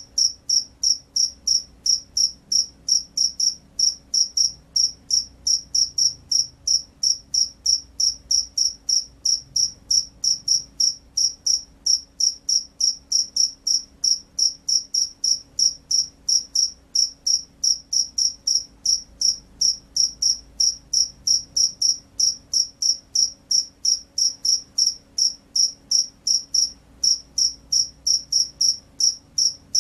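Field cricket chirping steadily: evenly spaced, high-pitched chirps at about three a second, without a break.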